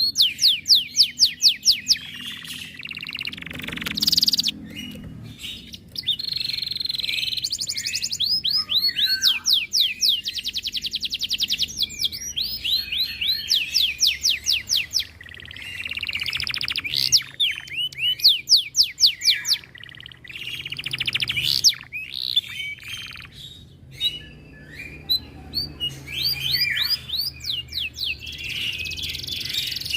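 Domestic canary singing a long song of rapid trills, each trill a fast run of repeated high sweeps, with a few short breaks between phrases.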